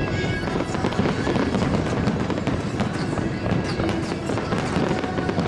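Aerial fireworks bursting in quick succession: a steady rumble of booms with many sharp cracks and pops.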